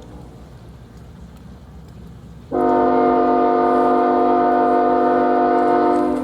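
Diesel locomotive air horn sounding one long blast, a chord of several steady notes, starting about two and a half seconds in; before it only a low rumble.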